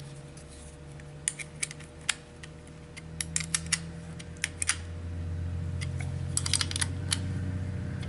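Light, irregular metallic clicks of small wrenches on nuts and a steel bracket plate as the nuts are snugged up by hand. A low steady hum underneath grows louder about five seconds in.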